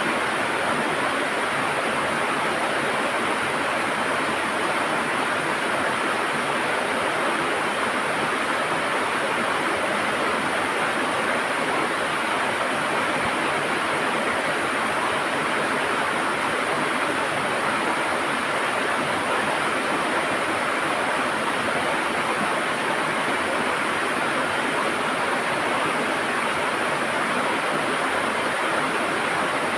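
River water gurgling and rushing steadily, a constant even flow with no breaks.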